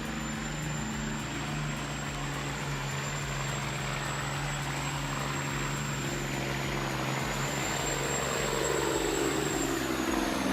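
A heavy vehicle's engine running steadily, a low hum with a thin high whine over it; its pitch shifts near the end.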